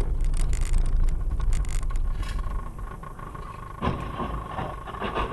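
Low rumble of a car driving on the road, with gusty noise over the first two seconds. From about two seconds in a steady tone sounds, and there are a couple of brief knocks near the end.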